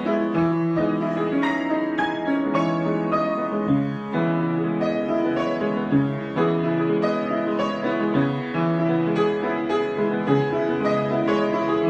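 Solo piano improvisation: a steady run of sustained chords and melody notes with no break.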